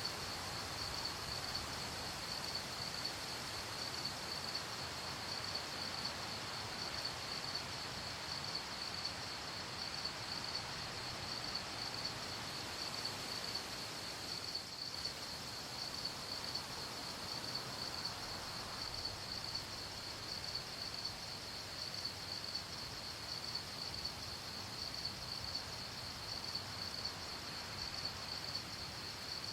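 Crickets chirping in a steady chorus, a fast even trill, over a soft background hiss.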